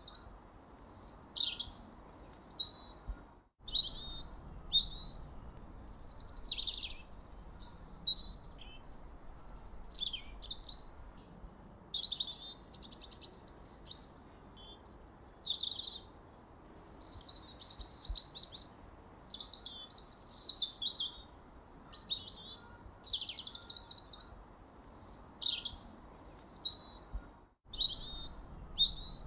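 Songbirds chirping and singing in short, varied phrases, one after another, over a faint steady background hiss. The sound cuts out completely for a moment twice.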